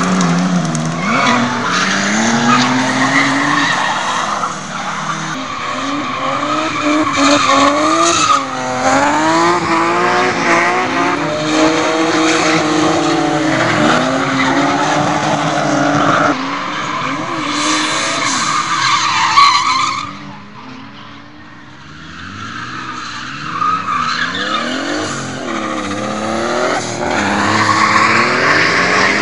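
Drift cars' engines revving up and down, with tyres squealing as the cars slide. The sound falls away briefly about two-thirds of the way through, then builds again.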